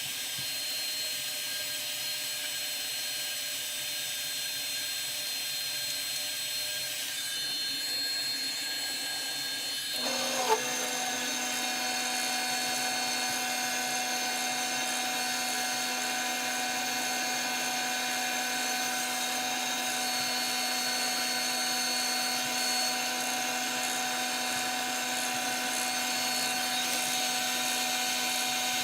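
Woodturning lathe motor running with a steady whine; about ten seconds in there is a short glide in pitch and a sharp click, and it settles into a new, slightly louder steady hum.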